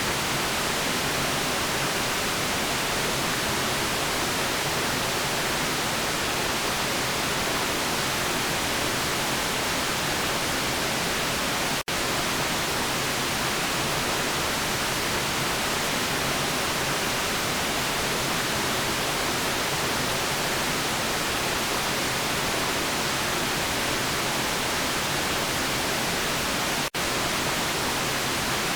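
Steady white noise, an even hiss with no tones or rhythm. It drops out for an instant twice, about 12 and 27 seconds in.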